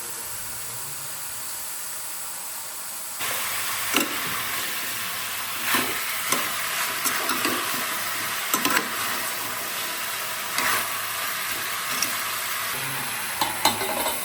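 Chicken frying in ghee in a pan, sizzling steadily. The sizzle gets louder about three seconds in, and a spoon scrapes and knocks against the pan every second or two as the meat is stirred.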